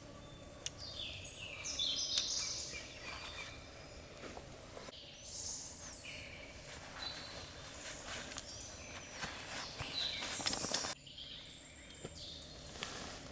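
Wood campfire crackling with scattered sharp pops, under short, high chirping calls from wild birds. The sound changes abruptly twice, about a third of the way in and near the end.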